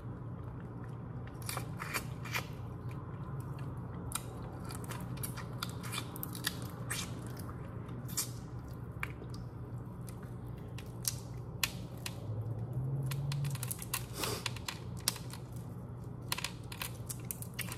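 Close-up chewing and crunching of broiled head-on shrimp, with many irregular crisp clicks and wet smacks of biting and chewing. A low steady hum runs underneath.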